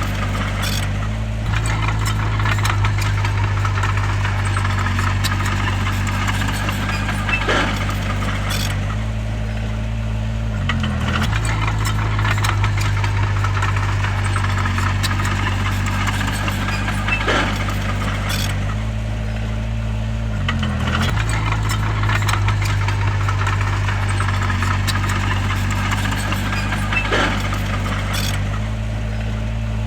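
Bulldozer's diesel engine running steadily under load, its pitch dipping briefly and recovering about every ten seconds as the machine works, with scattered clanks and rattles of tracks and stone.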